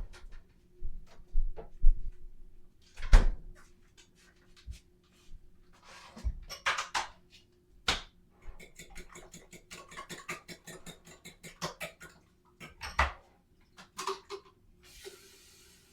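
Kitchen handling sounds: dishes and utensils clicking and knocking, with a fast run of light clicks in the middle and a short hiss near the end.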